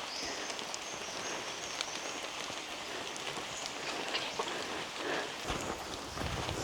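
Steady rain falling on rainforest foliage, with many small drips ticking among the hiss. A low rumble comes in near the end.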